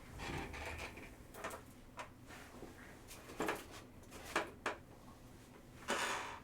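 Trading cards being handled and moved around on a table: a brief rustle at the start, a few light clicks and taps in the middle, and a short sliding swish near the end.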